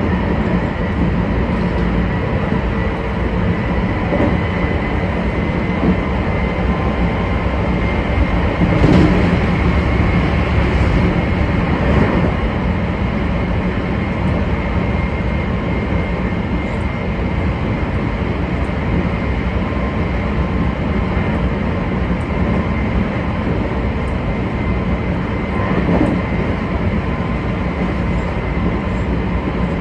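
Meitetsu 2200 series electric train running at speed, heard from inside the driver's cab: a steady rumble of wheels on rail with a steady high whine. Slightly louder knocks come about nine and twelve seconds in.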